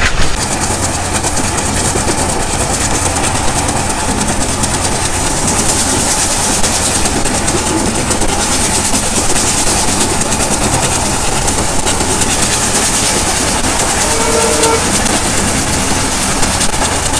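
Diesel-hauled express train running along the track: a steady rumble with the clatter of wheels on rail joints.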